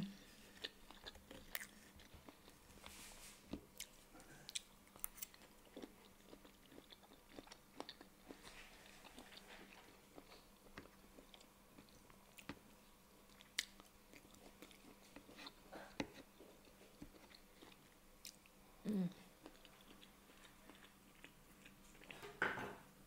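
Close-up chewing of tough, fatty rib steak, faint and wet, with scattered small clicks and scrapes of knife and fork against the meat and wooden board. A short low hum about two-thirds of the way through.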